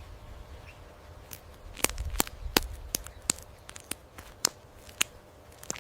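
Anhinga eggshell cracking as a chick hatches: irregular small sharp cracks and ticks, about a dozen, over a low rumble.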